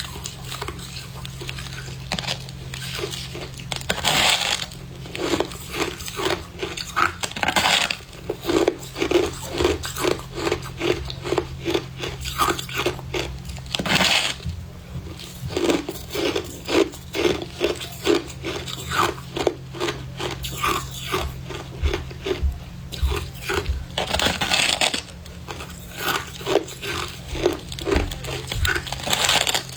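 Close-up crunching of freezer frost (snow ice) being bitten and chewed, a rapid run of crunches a few times a second, with louder bites now and then.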